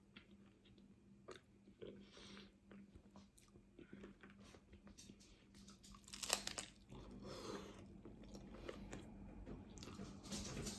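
Crunchy taco shell being bitten and chewed, scattered crackles with one louder crunch about six seconds in.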